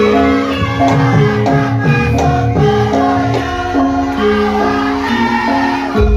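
Javanese gamelan ensemble playing, its metallophones ringing in steady, stepwise-changing notes over a busy rhythm, with a deep low stroke near the end.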